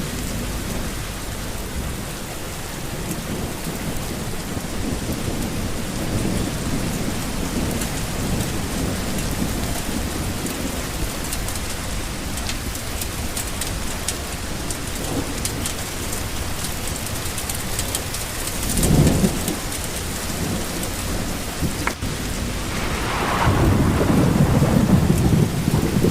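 Steady rain falling, with thunder rolling through it: a short rumble about three-quarters of the way in, then a longer, louder rumble building near the end.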